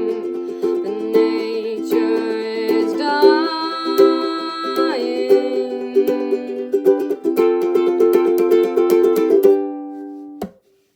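Ukulele strumming chords. The last chord rings out, then is cut off by a click about ten and a half seconds in.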